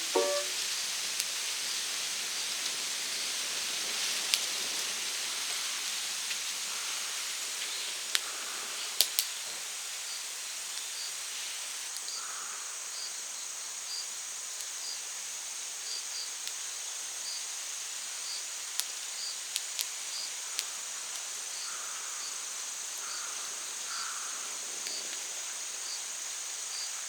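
Outdoor insect chorus: a steady high buzz of crickets or similar insects, with a faint chirp repeating about once a second. A few sharp snaps stand out over it.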